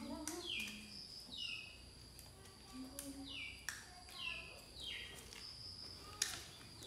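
A bird chirping over and over, short notes that fall in pitch, about once a second, with a few faint clicks and snaps from water spinach stems being handled and picked.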